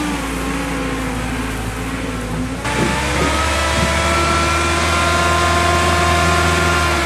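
Engine of a heavy work machine running under load. The sound changes abruptly about three seconds in, then the engine speeds up and holds a higher pitch.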